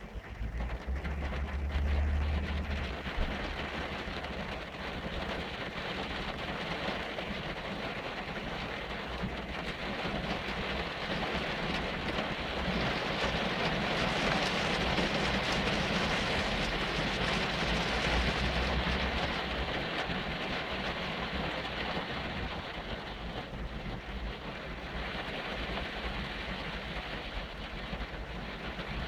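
Mercedes-Benz W124 E300D driving on a wet road in the rain: a steady hiss of rain and tyre spray that grows louder around the middle, with a low rumble underneath.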